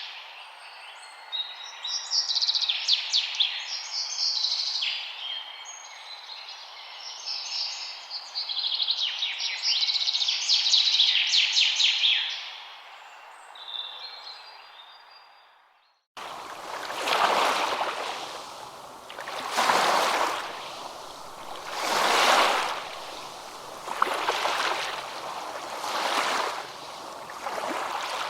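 Songbirds singing in rapid trills and chirps, fading out about halfway through. After a sudden cut, water washes in regular swells about every two and a half seconds, like small waves breaking on a shore.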